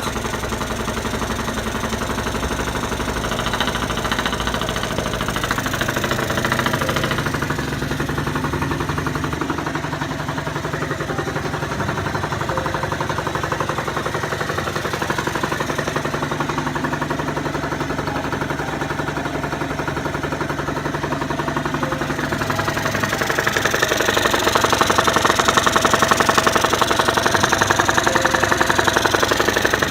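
Genuine Roughhouse 50 scooter's small two-stroke single-cylinder engine idling steadily just after a kick start on a cold morning, its top end freshly rebuilt and not yet broken in. About two-thirds of the way through it gets louder and runs faster.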